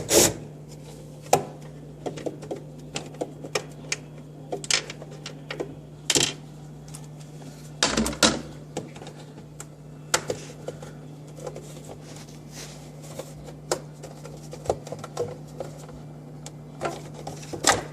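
Irregular light clicks, taps and knocks of parts and tools being handled while an ice maker is taken apart, with a few louder knocks scattered through, over a steady low hum.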